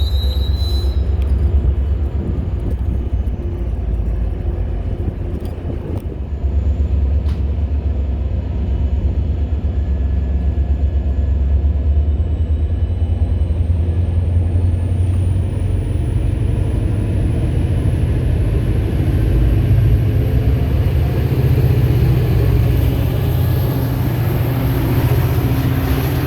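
Diesel locomotive of an MBTA commuter train running with a loud low rumble, its engine note rising about halfway through as it throttles up, while a thin high-pitched whine climbs slowly.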